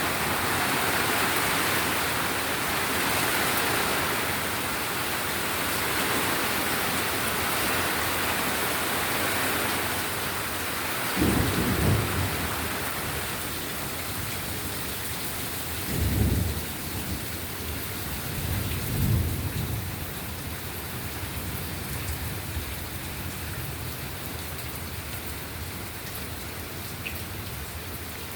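Steady rain falling, heavier at first and slowly easing, with three short low rumbles of thunder about 11, 16 and 19 seconds in.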